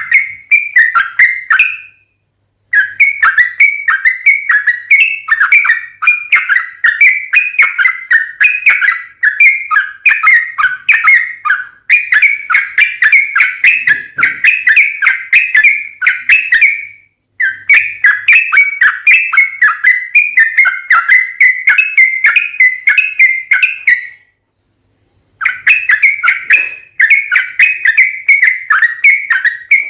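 Yellow-vented bulbul (trucukan) singing a long, fast rolling song of bubbly chirps, in long phrases broken by three short pauses.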